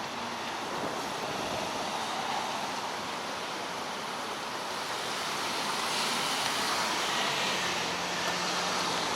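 Steady outdoor noise of street traffic and wind, picked up through a foam windscreen over an action camera's microphone, so the wind sounds muffled. The hiss grows louder about halfway through, with a faint low hum near the end.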